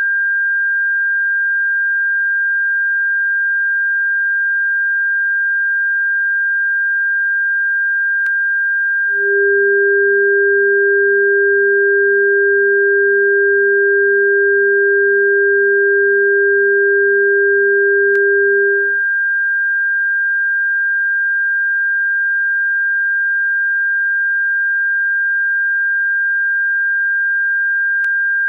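Electronically generated pure tone of a bird-repellent frequency track: a steady high tone, joined about nine seconds in by a second, lower steady tone that stops near nineteen seconds, with faint clicks where the track is joined.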